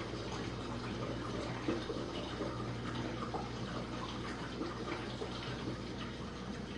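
Jenn-Air dishwasher running a quick wash cycle: water sprays and splashes steadily inside the tub over a low, even hum from the wash pump motor.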